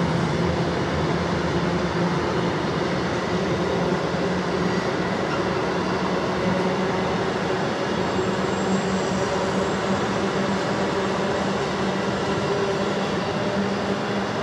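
A long train passing through the station at speed: a steady noise of wheels on rail with a low hum underneath, unbroken throughout.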